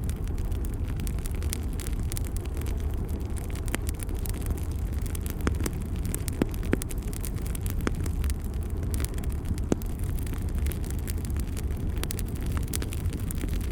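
Bonfire burning: a steady low roar with scattered sharp crackles and pops from the burning wood.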